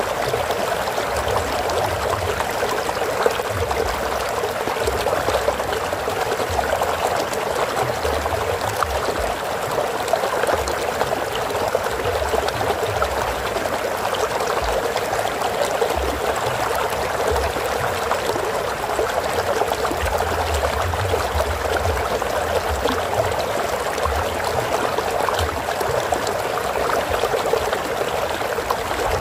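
A stream of flowing water running steadily, a continuous rushing and trickling with an uneven low rumble underneath.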